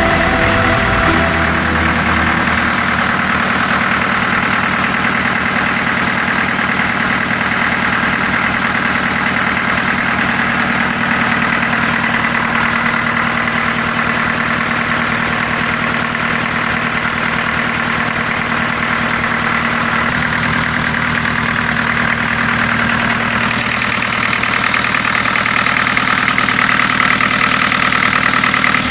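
4Ч-8.5/11 four-cylinder marine diesel running steadily at idle during its run-in after a rebuild. The low hum changes about a second in, and it gets slightly louder near the end.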